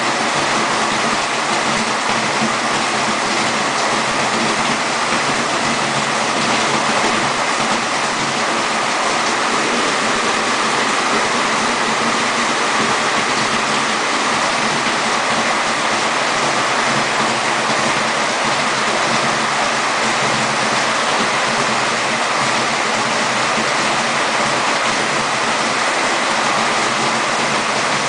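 Heavy downpour: a steady, loud rush of rain and running water, unbroken throughout.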